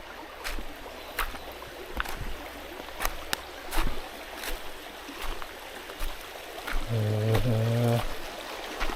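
Footsteps crunching over stream-bed stones, about one step every 0.7 seconds, over the steady rush of a mountain stream. Near the end, a man's voice hums briefly for about a second.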